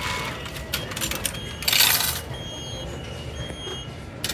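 Ticket vending machine taking payment: a few sharp clicks, then a short loud rattle as the money goes in, over steady station background noise.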